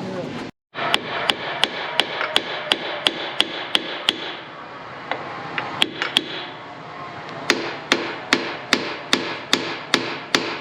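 Hammer blows on steel, knocking a stuck part loose from a New Holland 8770 tractor's PTO. The blows come in a steady run of about three a second, each with a short metallic ring. There is a looser spell of scattered blows midway, then a second steady run.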